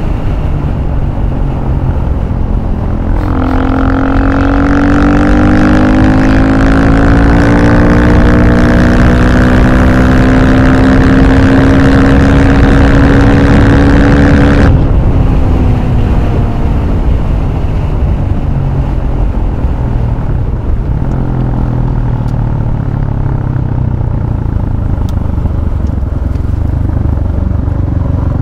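Husqvarna FE 450 single-cylinder supermoto engine under steady throttle through an FMF exhaust, with heavy wind rumble on the microphone. Its note rises slightly for about ten seconds, then drops away abruptly to a quieter engine sound.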